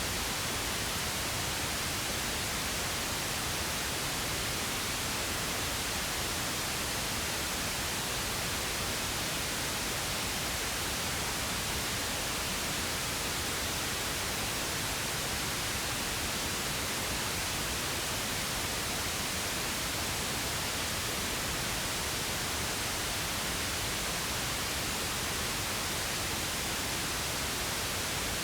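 Pink noise: a steady, even hiss that holds constant with no changes or events.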